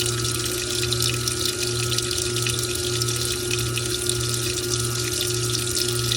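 Washing machine washing a load of towels: a steady rush of water with a low motor hum that pulses about twice a second.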